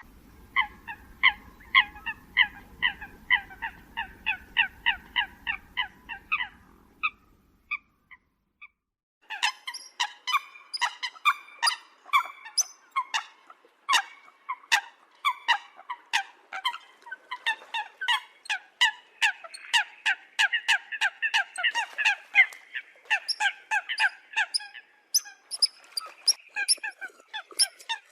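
Eurasian coots calling: a run of short, sharp calls at about three a second, a pause of about two seconds, then a denser run of overlapping calls from more than one bird. A faint low rumble lies under the first run of calls.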